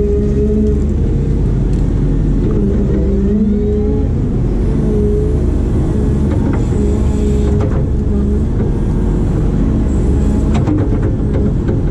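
Diesel engine and hydraulics of a heavy excavator working, a steady low rumble with a hum that rises and falls slightly in pitch as the load changes. A few faint knocks come through in the second half.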